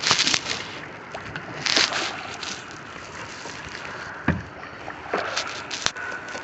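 Kayak paddle strokes splashing in lake water, with the loudest splashes at the start and about two seconds in, and more near the end. A single dull knock comes about four seconds in.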